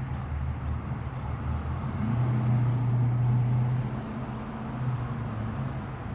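A muscle car's engine running at low revs as the car rolls slowly in. Its low rumble swells about two seconds in and eases off again about two seconds later.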